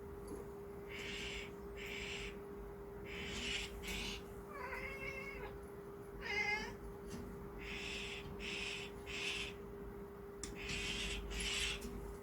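A domestic cat meowing twice, amid a run of short raspy chirps every second or so, over a steady low hum.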